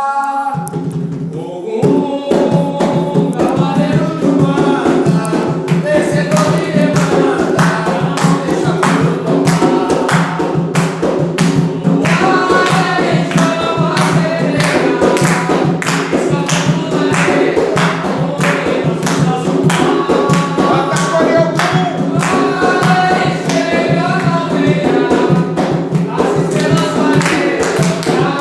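An Umbanda ponto for Ogum sung by voices with hand percussion; the percussion strikes come in about two seconds in and keep a steady beat under the singing.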